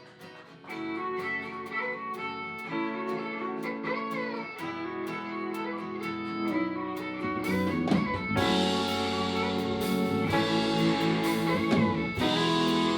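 Live country band playing the instrumental intro to a song, led by guitar. The music grows fuller and louder about eight seconds in as the rest of the band comes in.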